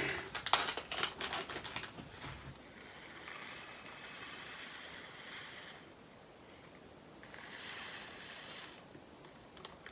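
Plastic diamond-painting drills being handled and poured into small plastic storage containers: a run of sharp clicks, then two pours of tiny beads rattling in with a dense hiss that tails off as the flow slows.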